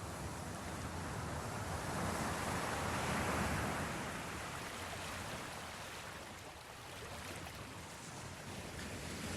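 Ocean waves washing on the shore. The surge swells about three seconds in, ebbs away, then builds again near the end.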